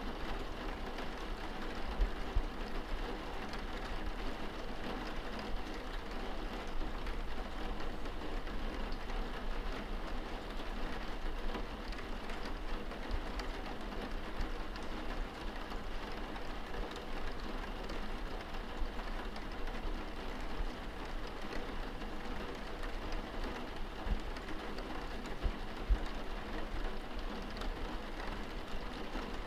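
Rain heard from indoors, drumming steadily on a window pane, with scattered louder drops tapping the glass.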